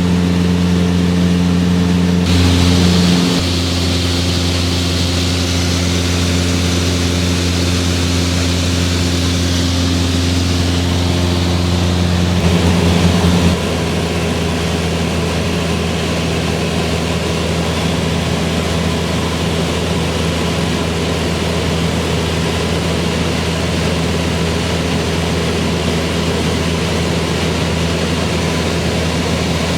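Cessna 172R's four-cylinder Lycoming engine and propeller droning steadily in flight. The engine note drops slightly about three seconds in and again, a little lower and quieter, about thirteen seconds in.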